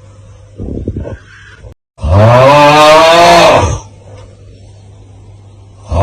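The 'Aauuggh' meme sound effect: one loud, drawn-out groaning 'aauuggh' cry in a person's voice, about two seconds in, lasting nearly two seconds, its pitch rising then falling. A faint short sound comes before it, over a low steady hum.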